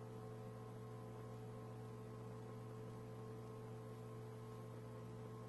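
Faint steady electrical hum with a low hiss: the open background of the radio recording between transmissions.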